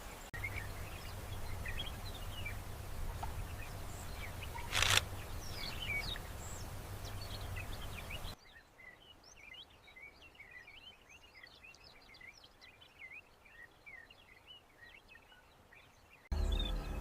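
Outdoor bird ambience: many small birds chirping over a low steady hum, with a brief loud rush about five seconds in. About eight seconds in the hum cuts out, leaving quieter, busy chirping, and just before the end a loud low sound with a held pitch starts suddenly.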